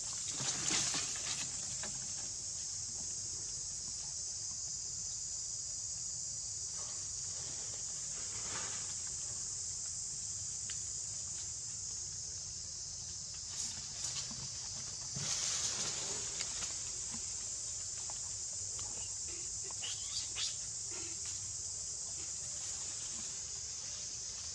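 Steady high-pitched chorus of insects, with a few brief, louder noises scattered through it.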